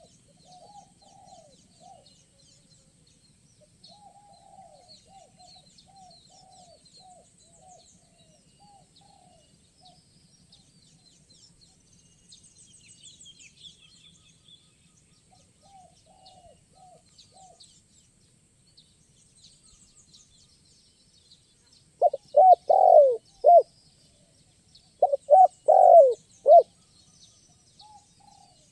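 Spotted doves cooing: faint repeated coos through much of the stretch, then near the end two loud, close coo phrases about three seconds apart. Small birds chirp faintly in the background.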